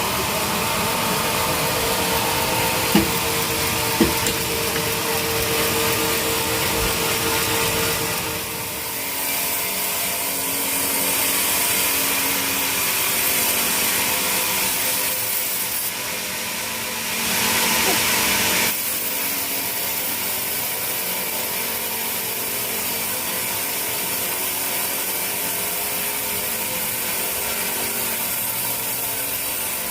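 Sawmill saw running steadily and cutting teak timber, with two sharp knocks a few seconds in. The pitch and loudness shift twice as the cut goes on.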